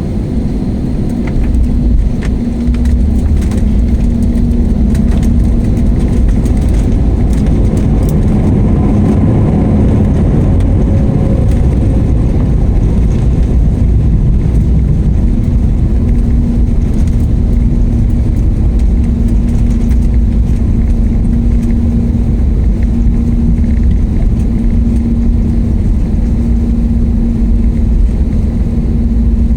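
Jet airliner landing: a loud, steady low rumble of engines and rolling noise with a faint steady hum, growing louder about two seconds in.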